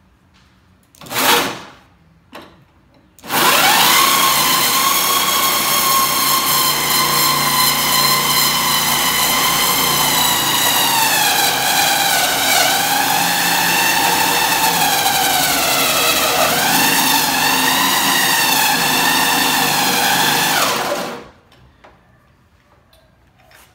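Electric drill spinning a hole saw against a car hood: a short blip of the trigger, then about 18 seconds of steady running whose pitch sags twice as the saw bites and loads the motor, before it winds down. The saw struggles to start its cut.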